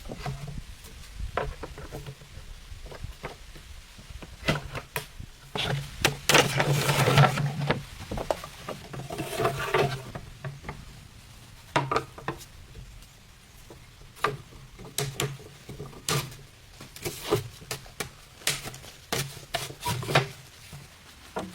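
Scattered knocks and clatter of objects being handled, with a longer stretch of rustling and scraping about six seconds in.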